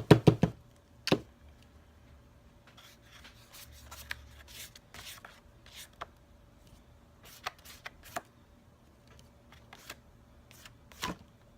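Craft materials being handled on a work table: a quick run of sharp knocks at the start and another about a second in, then soft paper rustling and scattered light taps, with one more knock near the end.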